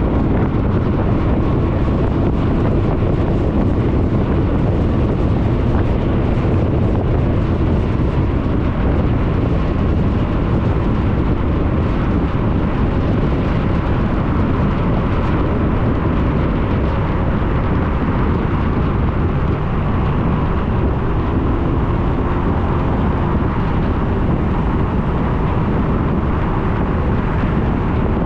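Suzuki Burgman 400 scooter under way at a steady speed: wind rushing over the microphone mixed with steady engine and road noise, with no clear rise or fall in engine pitch.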